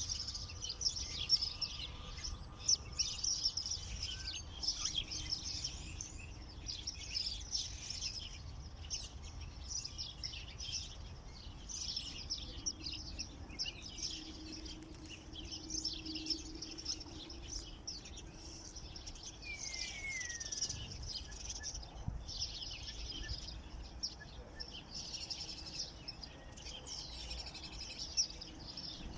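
Many small songbirds chirping and singing at once, a dense overlapping chatter of high calls, with one falling whistle about two-thirds of the way through. A low rumble runs underneath.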